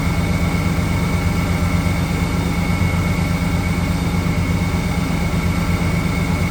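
Chevrolet 454 SS pickup's 454 big-block V8 idling steadily, with a thin steady high whine from the belt-driven accessories: a noise the owner puts down to a bad idler pulley, having also suspected the air pump or the AC clutch bearing.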